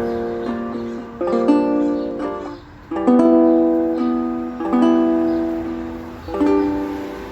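Music: chords on a plucked-string instrument, struck about every one and a half to two seconds and left to ring and fade, without singing.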